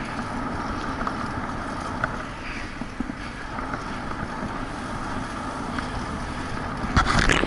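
Wind rushing over the microphone of a moving bicycle, with tyre and road rumble underneath and a few light ticks; a louder gust buffets the microphone about seven seconds in.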